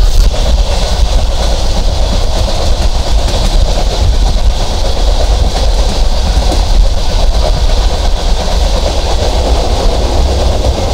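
Intercity passenger train running at speed, heard from on board: a steady, loud rumble of wheels on the rails.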